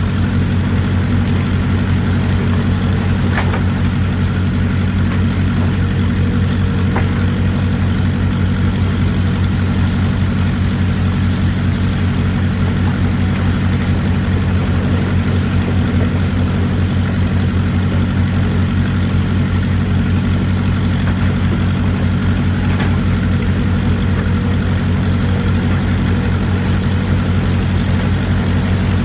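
Excavator diesel engines running steadily with an even low drone, over a constant hiss of running water. A few faint clanks stand out now and then.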